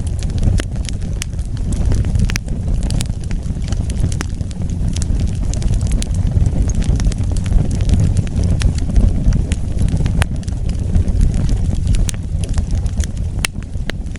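Wood fire burning with a steady low rush of flames and frequent irregular sharp crackles and pops from the burning logs.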